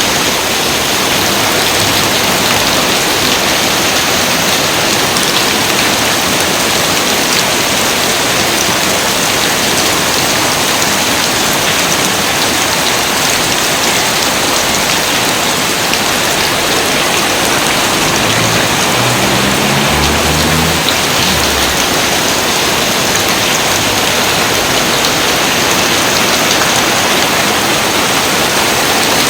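Loud, steady rain falling and pattering on surfaces without letup.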